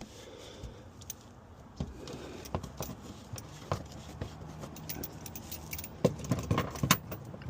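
Metal hand tools clinking and rattling as a socket is tried on a bolt, with a cluster of louder clanks about six seconds in.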